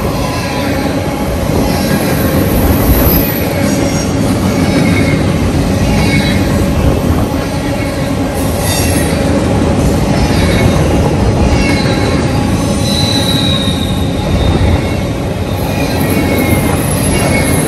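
Empty centerbeam freight cars rolling past, a loud steady rumble of wheels on rail with short wheel squeals now and then, one drawn out about two-thirds of the way through.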